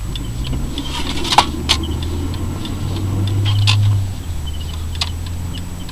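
A 1999 Plymouth Breeze turning at full steering lock, its low running drone swelling for about a second and then dropping, with sharp clicks about a second and a half in, again just after, and near the end. The owner hears this as a grinding from the front right wheel and thinks the lower control arm might be at fault.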